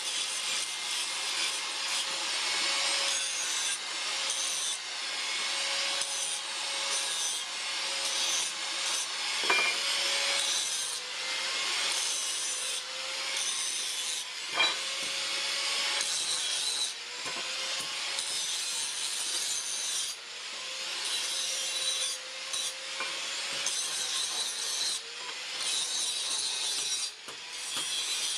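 Steel being rasped by hand in repeated back-and-forth strokes a second or two long, with a couple of sharp clicks, as a blade forged from a truck leaf spring is filed or abraded.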